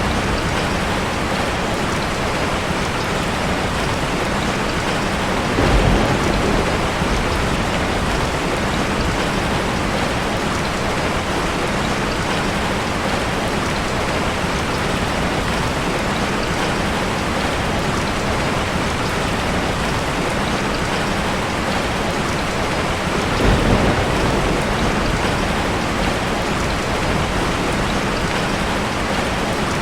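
Steady heavy rain falling, with two short low thunder rumbles swelling up, about six seconds in and again about twenty-four seconds in.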